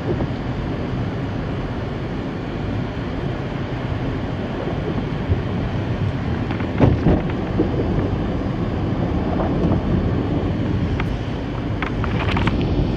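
A vehicle driving, with a steady low rumbling road and engine noise. There are a few short knocks about seven seconds in and a cluster of clicks near the end.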